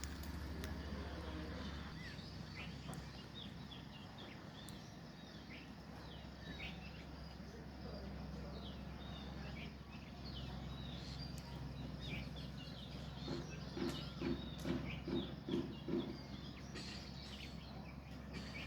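Young birds chirping: many short, high, quick calls that slide in pitch, over a steady low hum. Near the end a run of about six lower, evenly spaced pulses stands out.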